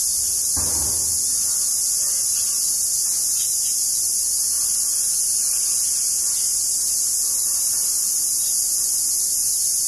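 Steady, high-pitched chorus of calling insects, an unbroken shrill buzz. A brief low thump comes about half a second in.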